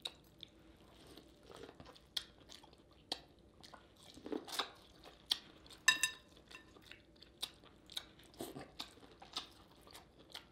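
Close-up mouth eating sounds: wet chewing with irregular lip smacks and sharp mouth clicks.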